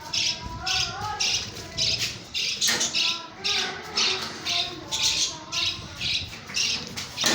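Small caged parrots chattering and squawking, with shrill calls repeating about twice a second over lower warbling notes.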